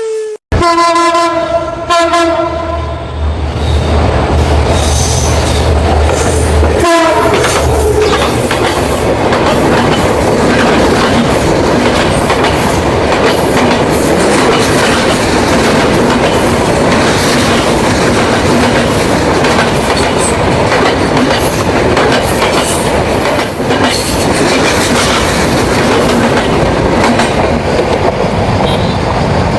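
A train sounds a long pitched horn or whistle blast in the first few seconds, then passes close by with a deep rumble and a steady clatter of wheels over the rails. Near seven seconds there is a short falling tone.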